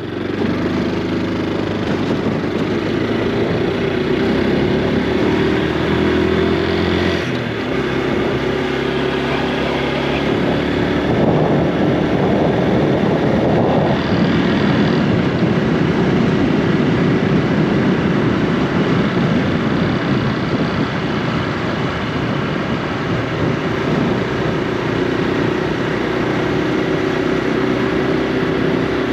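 Honda Super Cub C125's 125 cc air-cooled single-cylinder four-stroke engine running on the move, its pitch rising and falling with speed and throttle.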